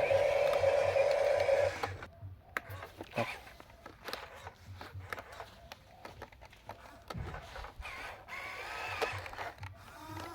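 Small electric motor of a Huina RC construction toy whining steadily, then stopping about two seconds in. Scattered light clicks and rattles follow.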